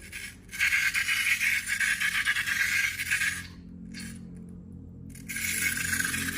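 Slime being squeezed and worked by hand, crackling and popping in two bouts with a short pause between them.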